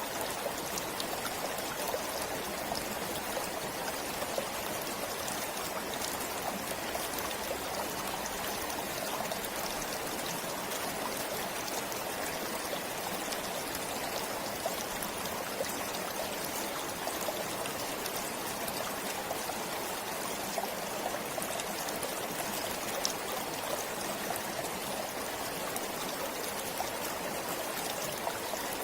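Forest stream flowing steadily, a continuous rush of water with small splashes and trickles over it.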